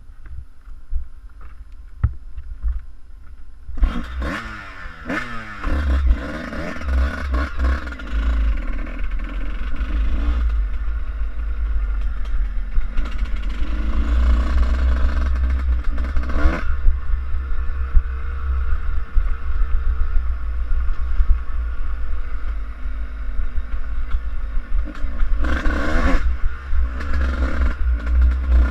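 Suzuki RM125 two-stroke motocross bike engine being ridden, revving up and down through its range. It starts about four seconds in after a quieter stretch, under a heavy low rumble.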